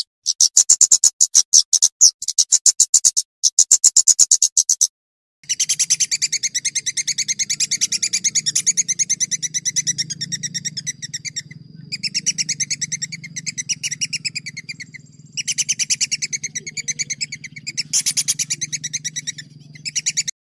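A songbird giving very fast rattling trills: first a run of short high bursts, then from about five seconds in a long unbroken rolling trill with a few brief pauses. A faint low hum runs under the later part.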